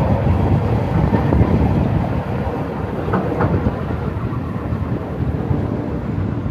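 Muong Hoa mountain monorail car running, heard on board: a steady rumble, with two faint, brief high squeaks about halfway through.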